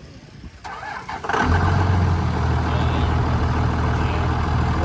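A 2001 Ram 3500 diesel pickup engine is cranked briefly, catches about a second and a half in, and settles straight into a steady idle.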